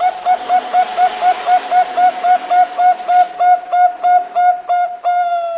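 Bangkok perkutut (zebra dove) cooing: a long run of short, evenly spaced notes, about four a second, ending in one longer held note near the end.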